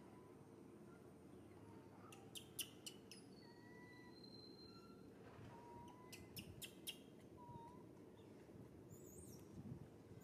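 Faint, scattered bird calls: short thin whistles, with a few high wavering chirps near the end, over a quiet steady hiss. Two quick runs of three sharp clicks come about two and a half and six and a half seconds in.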